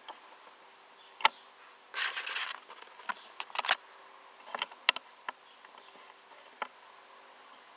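Handling noise from a diecast model car being turned and moved in the hand: scattered sharp clicks and a brief rustle about two seconds in, over a faint steady hum.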